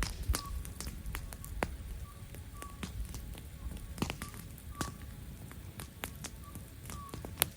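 Wood campfire crackling: irregular sharp pops and snaps, about two a second, over a low steady rumble of the burning fire.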